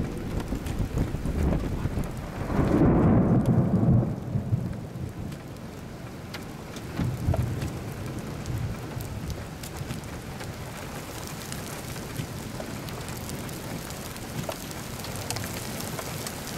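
Rain beating steadily on a vehicle, with scattered sharp ticks of single hits, and a rumble of thunder about three seconds in that is the loudest part.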